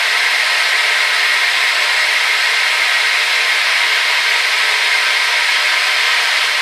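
Hair dryer running steadily: an even, loud rush of air with a band of hiss that is strongest in the upper middle and has no low rumble.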